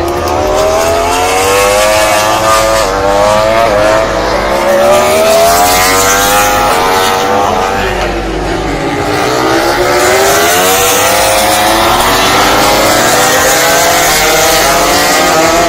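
MotoGP racing motorcycle engines at full race revs. The engine note climbs through the gears with sharp drops at each shift, then falls away, several times over.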